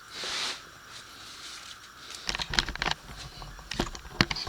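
Handling noise: a short hiss at the start, then irregular clicks, knocks and rustling from about two seconds in.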